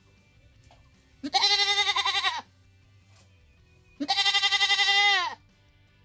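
Domestic goat bleating twice, each bleat about a second long with a quavering, wavering pitch.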